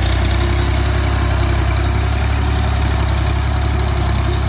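Tractor's diesel engine running steadily with a strong, even low hum.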